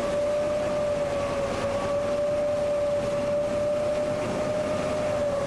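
Tour boat's motor running steadily, a constant high whine over an even rush of noise.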